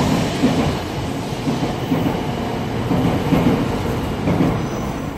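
700 series Shinkansen train running out of the station past the platform as it picks up speed, a steady rumble with a regular clatter of wheels. The noise drops away right at the end as the last car passes.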